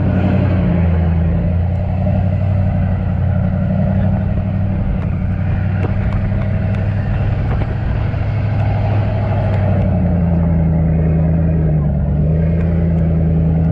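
A motor vehicle's engine running steadily, heard from aboard, its note dipping briefly near the end.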